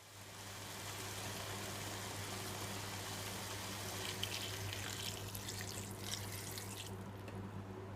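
Water running from a tap, splashing steadily, over a constant low hum; the splashing thins out a little near the end.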